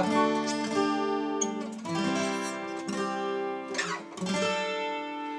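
A plucked string instrument, likely an acoustic guitar, strummed in three chords about two seconds apart, each left to ring.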